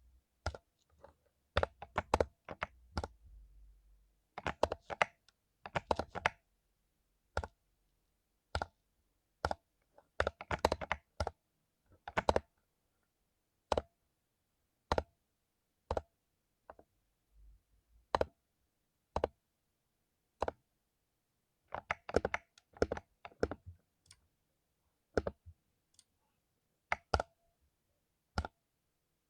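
Mechanical keyboard with lubed Cherry MX Silver linear switches being typed on. Short quick runs of keystrokes alternate with single key presses about a second apart.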